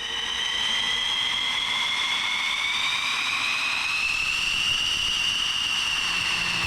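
F-16 jet engine whine with several overtones, starting up and rising slowly in pitch for about five seconds before levelling off, as the engine spools up.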